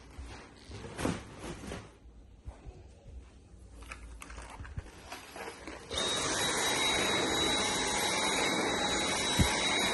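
A few quiet household knocks and clatters, then about six seconds in a vacuum cleaner starts suddenly and runs steadily with a thin high-pitched whine.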